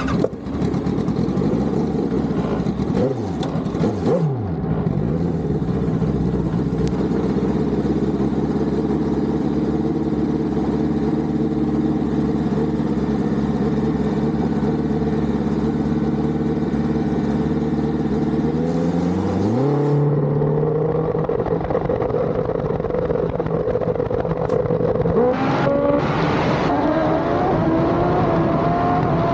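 Motorcycle engine running at a steady pitch, rising quickly to a higher steady pitch about two-thirds of the way through, then wavering up and down in pitch near the end.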